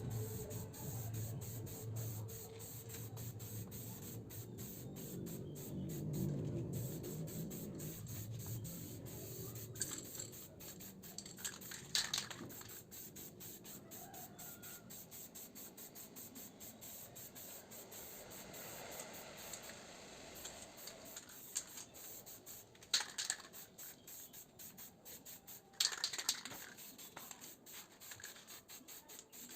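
Aerosol can of heat-resistant spray paint hissing in several short bursts, spaced a few seconds apart.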